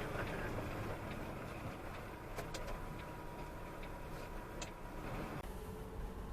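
Steady road and engine noise of a car driving, as picked up by a dashcam, with a few light clicks. The sound changes abruptly about five and a half seconds in.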